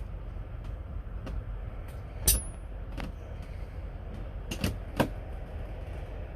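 A few sharp clicks and knocks, the loudest a little over two seconds in and a close pair near the end, over a steady low hum.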